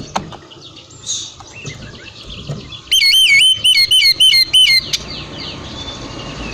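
Oriental magpie-robin (kacer) singing: soft, varied chirps and twitters, then about three seconds in a loud, fast run of repeated whistled notes, about six or seven in under two seconds, that stops abruptly.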